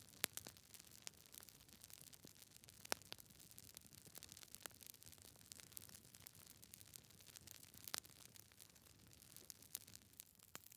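Wood fire burning in a fireplace, crackling logs giving irregular sharp pops and snaps over a soft low rush of the flames.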